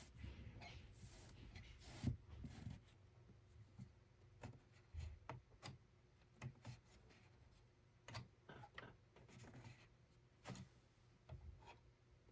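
Faint, irregular taps, clicks and rubbing from small objects being handled by hand.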